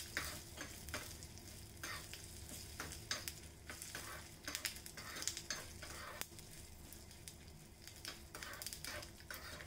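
A tempering of dals, spices, green chillies and curry leaves sizzling faintly in a little ghee in a small pan. A metal spoon stirs it, scraping and clicking against the pan in irregular strokes, while it fries until the chana dal turns brown.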